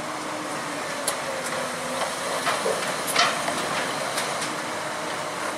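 Heavy machinery running with a steady hiss, broken by about five sharp metallic knocks or clanks spread over a few seconds.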